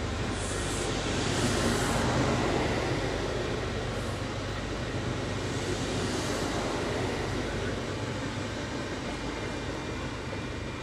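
Train running past: a steady rumble that is loudest about two seconds in and slowly eases off.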